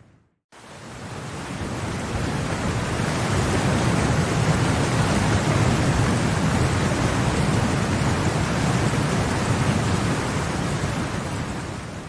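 Storm ambience: steady heavy rain with a low rumble, fading in after a brief silence and fading out near the end.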